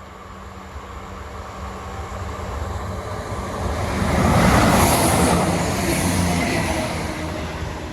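Class 170 Turbostar diesel multiple unit approaching and passing: engine hum and wheel-on-rail noise grow louder, peak about halfway through, then fade as it goes by.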